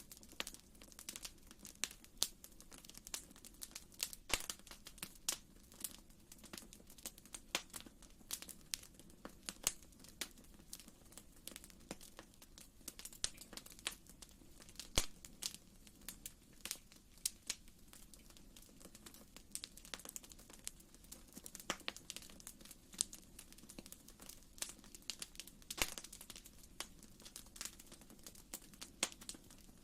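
Wood fire crackling in a fireplace: irregular sharp pops and snaps, several a second, over a soft steady low rush.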